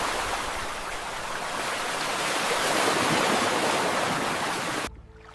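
Rushing water, a steady dense hiss-like rush that cuts off suddenly near the end.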